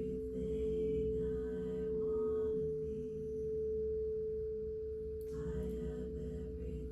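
A singing bowl sounding one steady, sustained ringing tone that slowly swells and fades, over soft background music. A light strike comes about five seconds in.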